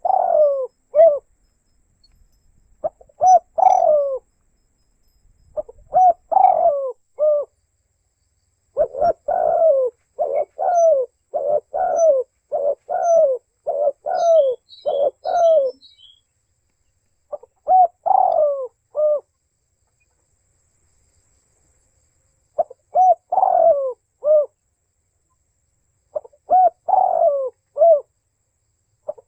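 Spotted dove (tekukur) cooing: repeated phrases of several coos each, a few seconds apart, with a fast run of coos in the middle. A few faint high chirps from a small bird come partway through.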